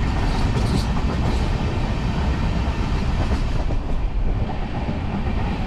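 Indian Railways sleeper coach running at speed, heard from inside by the window: a steady noise of wheels on the rails and the moving coach, heaviest in the low end.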